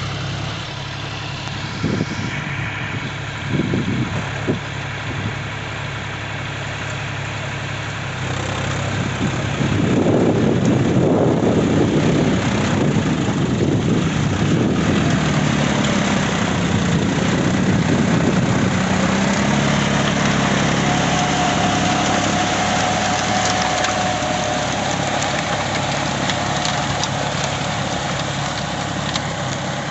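John Deere 5045 4WD tractor's diesel engine running steadily, with a few knocks in the first few seconds. About a third of the way in it grows louder and stays louder, easing off slowly toward the end.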